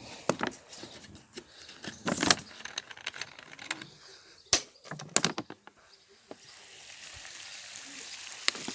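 Food sizzling in a kazan over a campfire, with a series of sharp knocks and clatters of handling at the pot. The loudest come about two and four and a half seconds in.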